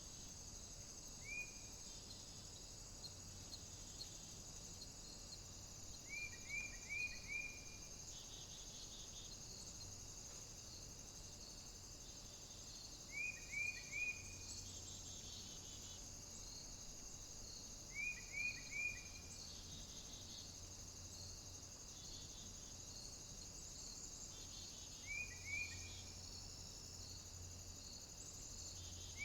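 Steady, high-pitched chorus of cicadas, with a bird repeating a short phrase of three or four quick notes every five to seven seconds.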